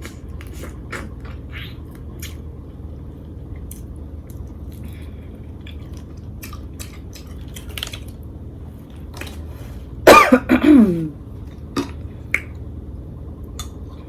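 Close-miked mukbang eating sounds: scattered small clicks and mouth noises of chewing seafood and handling utensils. About ten seconds in comes one loud, short vocal sound from the eater, falling in pitch, like a cough or a throaty exclamation.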